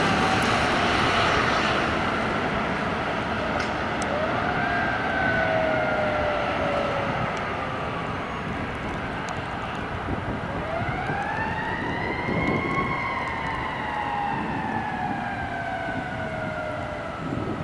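Emergency vehicle siren in a slow wail: the pitch slides down, rises again about four seconds in, then climbs once more near the middle and falls slowly, over steady road and engine noise.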